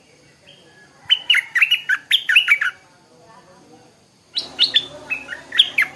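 Stripe-throated bulbul singing: two bursts of rapid, short notes sweeping down in pitch, the first about a second in and the second about four seconds in, each lasting a second and a half or so.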